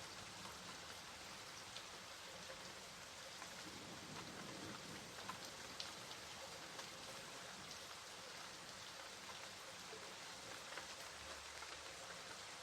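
Steady, soft rainfall, with scattered individual drops striking a surface.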